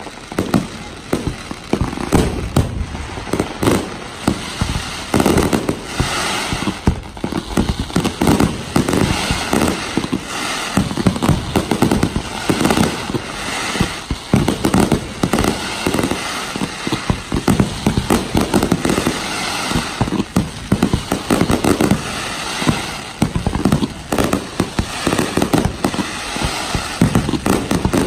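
Aerial firework shells bursting in a continuous, rapid barrage of bangs, many overlapping each other.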